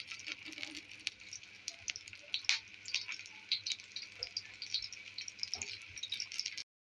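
Beef seekh kababs sizzling in a little oil on a hot tawa griddle, a steady hiss with irregular small crackles and pops. It cuts off suddenly near the end.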